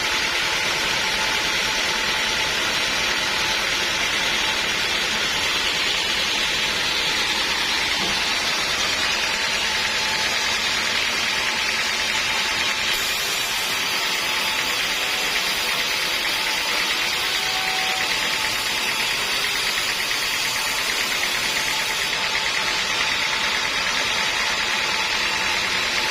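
Sawmill machinery running steadily, a constant even noise with no breaks.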